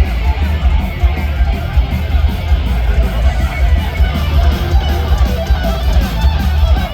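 Heavy metal band playing live: distorted electric guitars over drums and a heavy, dense bass end.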